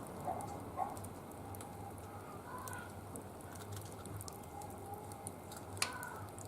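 Wood fire crackling faintly in a barbecue grill, with scattered small pops over a low steady background and a few faint chirps.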